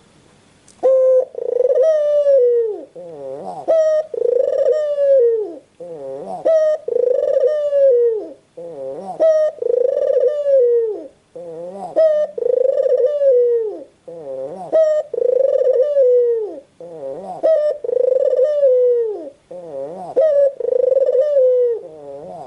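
White ringneck (Barbary) dove cooing: a rolling coo that rises and falls, repeated about ten times at roughly two-second intervals, starting about a second in.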